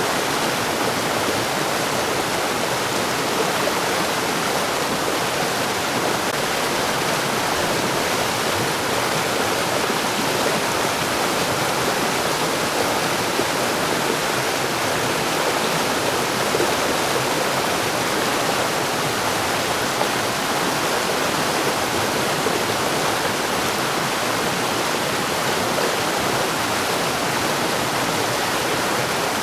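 Mountain stream running over rocks: a steady, even rush of water with no breaks.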